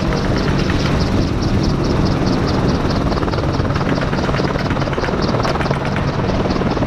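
Military helicopter running, its rotor beating at a steady quick rhythm over a continuous engine hum.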